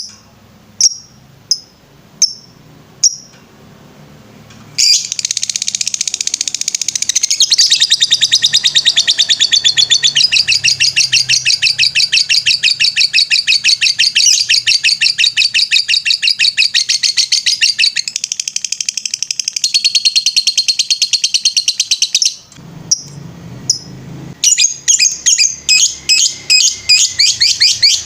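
Lovebird singing. A few single sharp chirps about a second apart, then from about five seconds in a long, fast, unbroken trill, the 'ngetrek' song, which breaks off for about two seconds near the end and then starts again.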